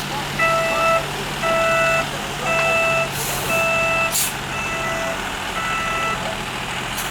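A truck's reversing alarm beeping about once a second, six beeps that stop near the end, over a large engine idling, with a couple of short bursts of hiss in between.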